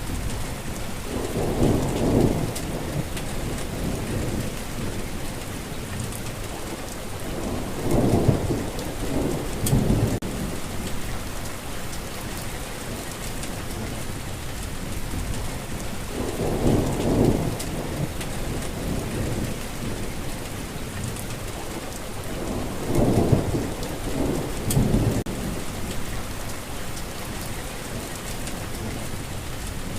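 Steady rainfall with distant thunder rolling four times, each roll lasting a second or two.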